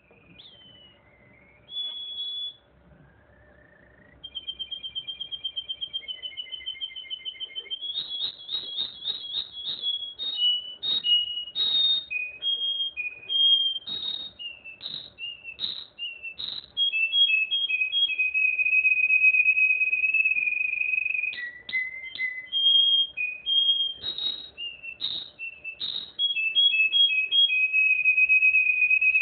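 Russian canary singing: clear, high whistled notes in varied phrases, a fast run of about six notes a second around eight to ten seconds in, and long steady held notes near the middle and again near the end.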